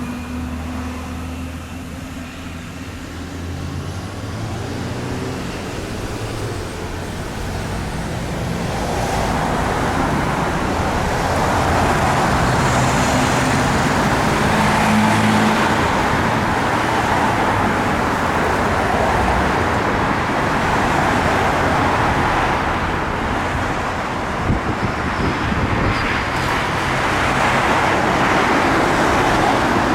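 Road traffic: a heavy vehicle's low engine hum fades over the first few seconds, then a steady rush of tyre and traffic noise builds about eight seconds in and holds.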